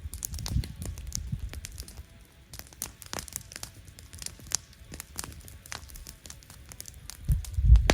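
Campfire burning, wood crackling with scattered sharp pops, over a low rumble that swells near the end.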